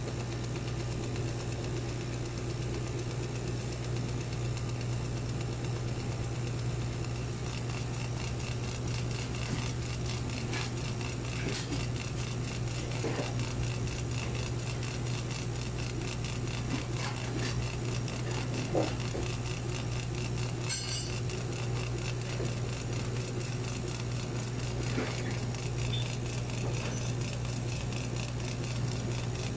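A machine running with a steady low hum, with scattered light clicks and clinks over it.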